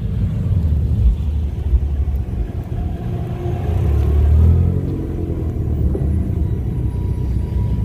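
Cars driving slowly past with a steady engine and exhaust rumble; about three to four and a half seconds in, an engine revs up with rising pitch as a modified first-generation Mazda Miata goes by.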